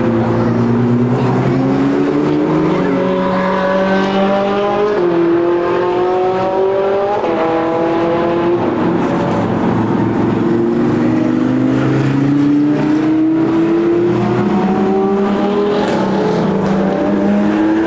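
Loud supercar engines accelerating, the pitch climbing and then dropping back in steps again and again as they shift up.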